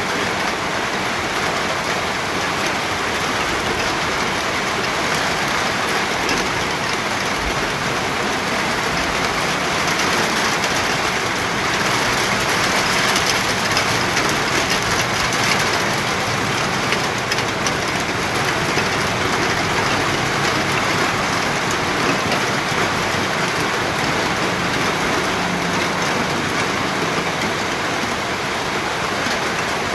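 Steady rain falling, a dense even hiss that swells slightly about halfway through.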